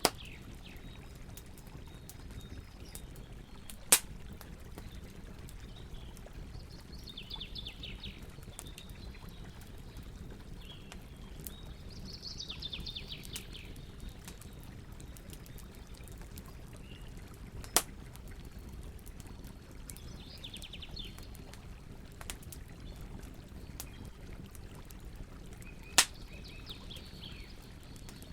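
Campfire burning with a steady low rush and a few sharp, loud pops of crackling wood. Birds sing short trilled phrases every several seconds in the background.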